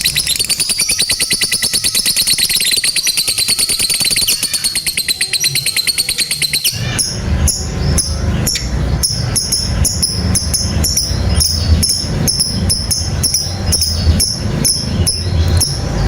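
Lovebird ngekek: a long, very fast high-pitched chattering trill, held unbroken for about seven seconds. It then cuts abruptly to a different, lower sound with an even beat of about three clicks a second under short high chirps.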